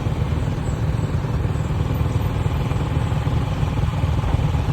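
Vehicle engine running steadily with a constant low rumble and road noise, heard from on board while driving.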